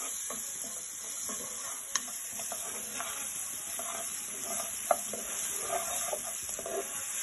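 Onions, chillies and curry leaves sizzling in hot oil in a coated wok-style pan while a wooden spatula stirs and scrapes through them. There is a steady high sizzle with light scraping clicks, and two sharp knocks, about two seconds in and again near five seconds.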